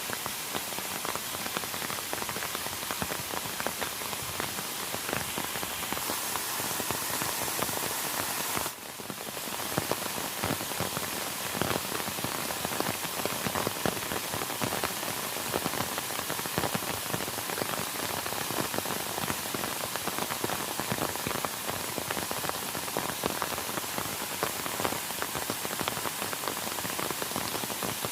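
Steady rain falling, dense with many small drop hits. The sound dips briefly about nine seconds in.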